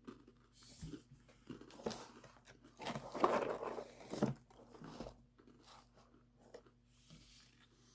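A person chewing a crunchy cinnamon graham cracker snack, with irregular crunches that are loudest about three to four seconds in.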